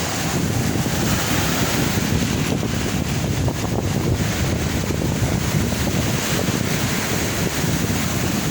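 Wind buffeting the microphone in a steady low rumble, over the wash of sea waves on the shore.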